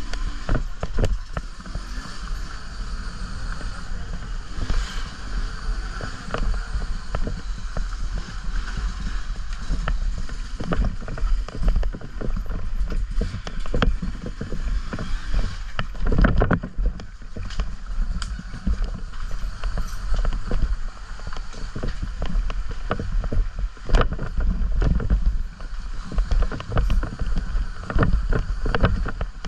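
Wind rushing over the microphone of a camera riding along on an off-road bike, with a steady low rumble and frequent short knocks and jolts from the rough, muddy trail.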